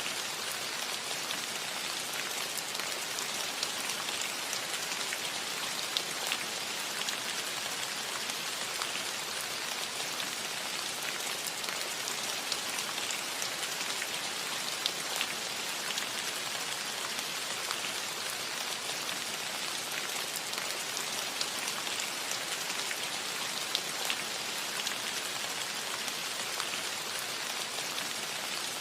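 Steady rain falling on a cottage roof: an even hiss dotted with the sharper ticks of individual drops.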